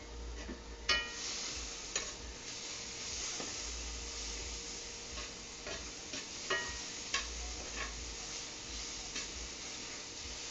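Food sizzling in a frying pan, with a utensil scraping and clinking against the pan several times as it is stirred; one clink about a second in rings briefly.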